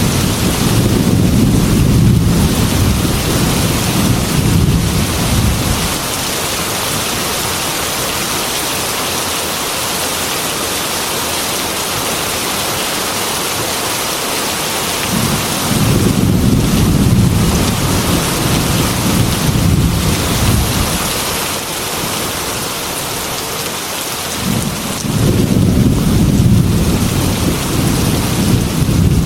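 Heavy rain falling steadily against window glass, with long low rumbles of thunder: one from the start lasting about six seconds, a second about halfway through lasting about five seconds, and a third near the end.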